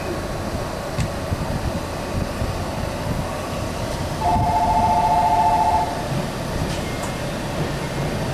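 Electric train running: a steady rumble of wheels and motors, with a loud two-note electronic tone sounding for about a second and a half midway.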